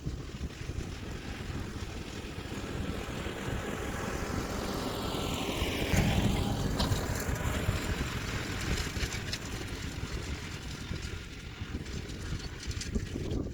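Kioti DK4710SE tractor's diesel engine running under load as it pulls a landscape rake, passing close about six seconds in, when it is loudest.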